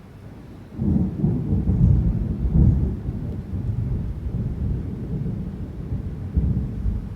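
Thunder during a typhoon thunderstorm, breaking in suddenly about a second in and rolling on as a loud, low, uneven rumble, loudest in the first two seconds.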